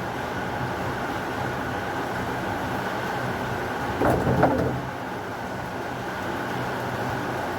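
Steady heavy rain falling, with a brief louder crackling burst about four seconds in.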